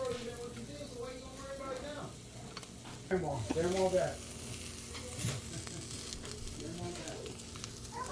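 Food sizzling in a frying pan, with a few sharp clicks of a metal utensil against the pan. A brief voice-like sound in the background about three seconds in is the loudest part.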